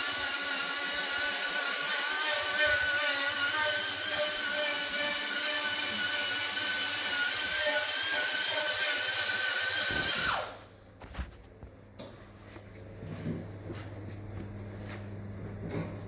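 Electric grinder running at full speed with a high, slightly wavering whine, then switched off about ten seconds in and winding down. A low steady hum and a few light clicks and knocks follow.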